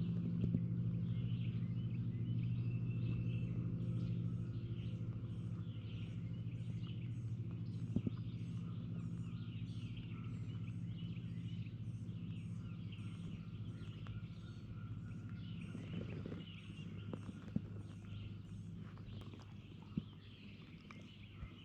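Steady low hum of a distant engine, slowly fading away, under songbirds singing the same short phrase over and over, about twice a second.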